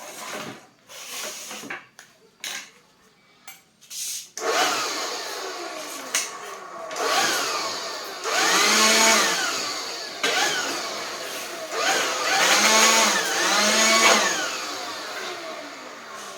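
A few scattered clicks, then about four seconds in a small motor starts abruptly and runs on, its pitch rising and falling several times as if revved.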